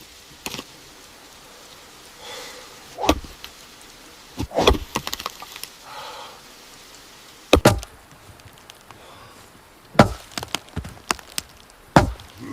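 Axe chopping wood: single heavy strikes every two to three seconds, each a sharp knock, some followed by a few quick lighter clicks.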